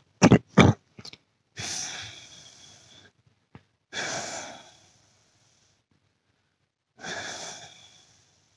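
A person breathing out heavily, three long exhalations a couple of seconds apart, each fading away, after two short sharp mouth sounds at the start.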